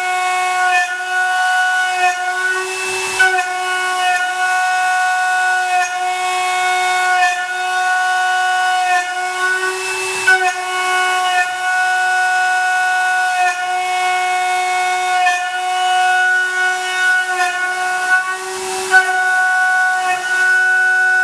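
Milling machine's end mill cutting aluminium: a loud steady whine of several tones that dips and resumes every second or two, with a few brief louder scrapes along the way.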